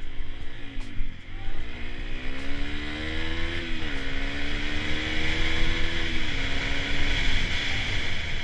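Dirt bike engine revving as it pulls away, the pitch climbing and then dropping suddenly as it shifts up a gear, twice, before fading near the end.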